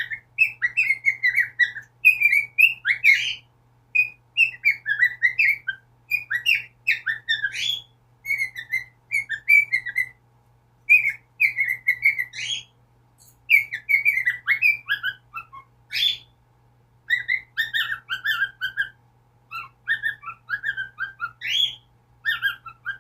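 Pet cockatiel singing: phrases of whistled notes that warble and glide up and down, separated by short pauses.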